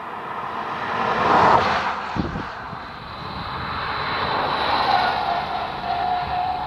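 A BMW car's engine under hard throttle as the car drives past. The sound swells twice, peaking about a second and a half in and again around five seconds, then eases off.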